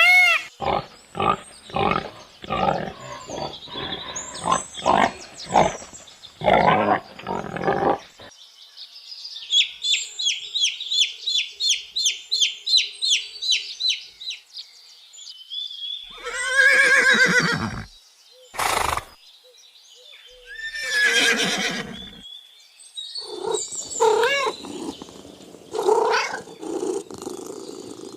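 A series of different animal calls, one kind after another: a run of short repeated calls, then a fast train of high chirps, then louder calls falling in pitch, then a mix of calls near the end.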